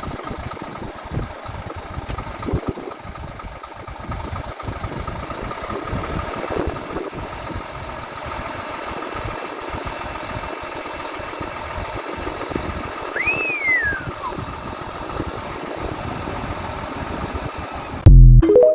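Truck engine running steadily, with one brief squeal that rises and then falls about two-thirds of the way through. A short, very loud blast comes near the end, then the sound cuts off abruptly.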